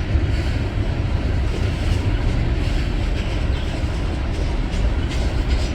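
Freight train rolling past: a steady low rumble of diesel locomotives and cars on the rails.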